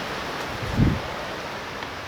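Torrential rain falling in a steady hiss, with a brief low thump a little under a second in.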